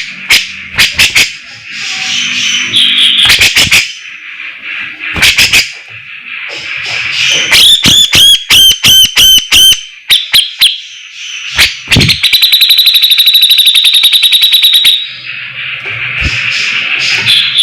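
Grey-cheeked bulbul (cucak jenggot) calling loudly in a continuous burst: sharp clicking notes, then a run of quick repeated arched whistles about eight seconds in. Near the middle comes a fast, even rattling trill lasting about three seconds.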